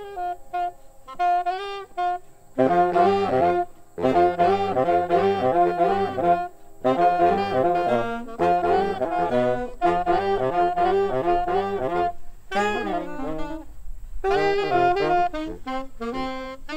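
Jazz music led by a saxophone playing fast, busy melodic runs, with a few brief pauses between phrases.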